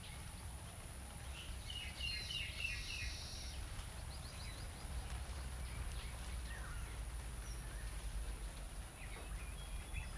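Birds chirping in a quick run of high notes from about one and a half to three and a half seconds in, with a few fainter calls later, over a steady low rumble of background noise.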